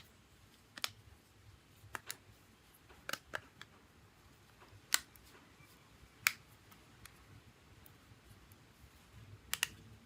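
Sharp, scattered clicks and taps of small tools and phone parts being handled during a smartphone repair, about nine in all at irregular intervals, with a quick pair near the end.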